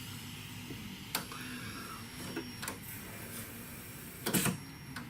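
A few small clicks and knocks from wires, connector and tools being handled, the loudest cluster about four seconds in, over a low steady hum.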